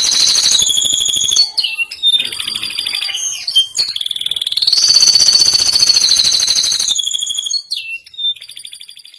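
Male domestic canary singing high-pitched rolling trills: long sustained rolls that shift pitch between phrases, broken up by shorter, choppier notes. The song breaks off just before the end.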